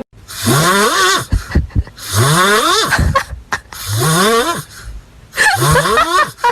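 An animal calling four times, roughly every one and a half seconds, each call a rough, wavering cry that rises in pitch.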